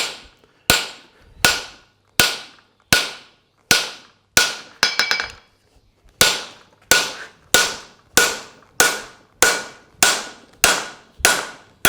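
Hammer striking a farrier's splitter (fullering tool) held in the steel of a horseshoe on the anvil, cutting the fuller groove: about sixteen sharp ringing blows, first about one every three-quarters of a second, then after a short pause, quicker.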